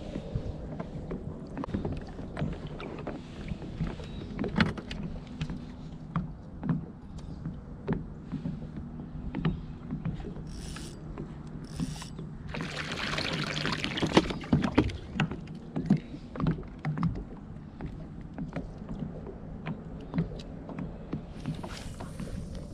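Kayak being paddled: irregular knocks and clicks of the paddle and gear against the hull over water noise, with a louder rushing spell of about two seconds just past the middle.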